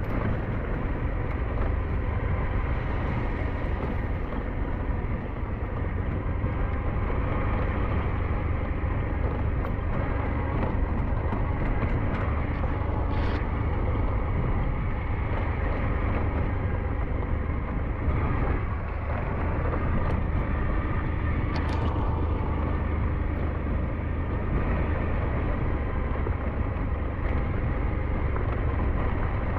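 SYM NHT 200 motorcycle engine running steadily under way, with a heavy low rumble throughout and a couple of brief clicks.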